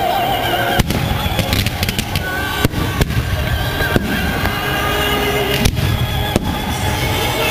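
Fireworks display going off: a steady rumble of bursts and crackle, punctuated by about half a dozen sharp bangs.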